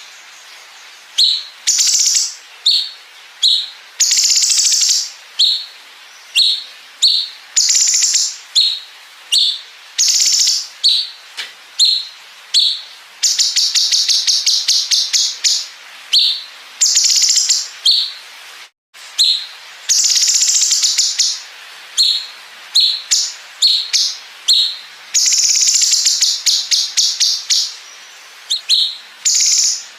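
Cucak cungkok singing: short, high chirps repeated over and over, broken by long, fast rattling trills (the 'bren' phrase) twice.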